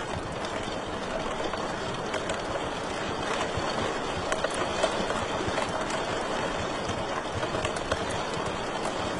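Wood fire crackling in a fireplace: a steady hiss of burning with many small pops, and a couple of louder pops about halfway through.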